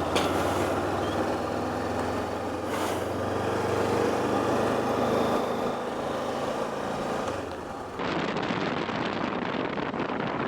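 Motorcycle engine running at low revs with a steady note. About eight seconds in the sound cuts to a dense rushing noise of wind on the microphone while riding.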